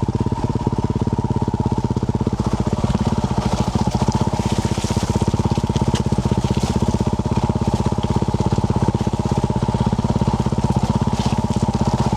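2024 Yamaha YZ450F's single-cylinder four-stroke engine through a Yoshimura RS-12 exhaust, running at a steady engine speed while riding, with no revving. A brief hiss joins it about four to five seconds in.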